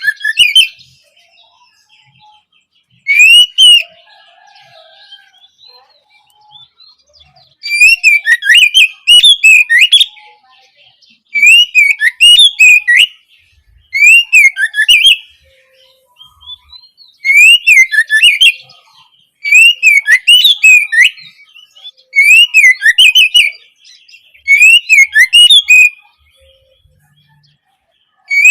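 Oriental magpie-robin singing loudly, repeating a short phrase of rising and falling notes about every two to three seconds, with brief pauses between phrases.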